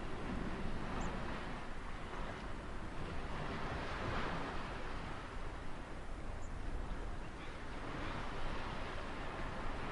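Ocean waves surging and washing onto a shore in a steady rush of surf, swelling louder about four seconds in.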